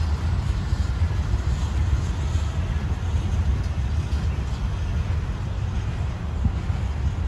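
Freight train rolling past: a steady low rumble with an even hiss over it.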